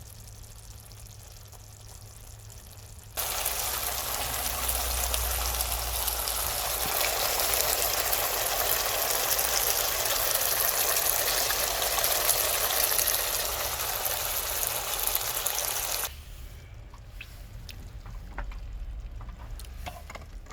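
Water running in a steady stream for about thirteen seconds, starting and stopping abruptly, over a low steady hum.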